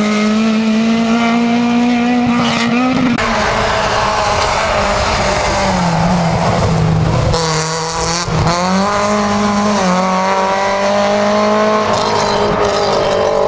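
Rally car engine running hard at high revs. The note drops and briefly cuts out about eight seconds in, then climbs again as the car pulls away.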